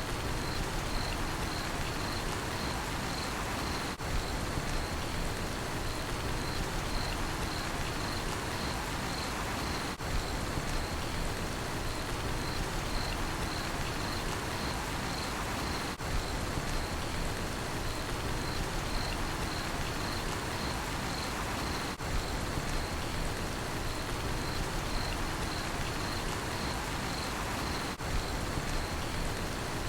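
Steady rain falling, with crickets chirping in a high, regular pulse over it.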